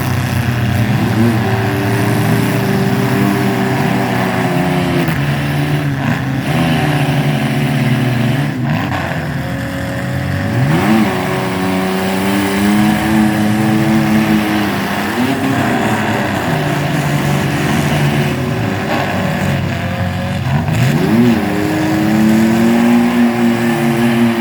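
Mini truck engines running and revving. The pitch sweeps up sharply several times, about a second, six, nine, eleven and twenty-one seconds in, then holds, as the trucks accelerate and run under load.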